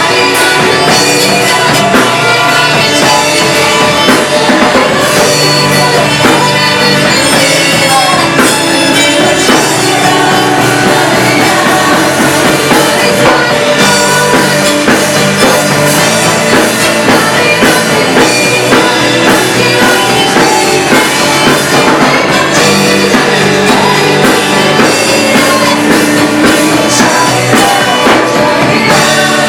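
A live worship band playing loud, steady rock-style music with a drum kit and guitar, and voices singing.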